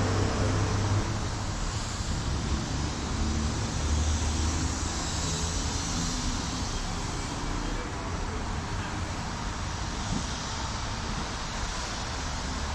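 Steady low rumble of passing and idling cars, swelling and fading, under an even hiss.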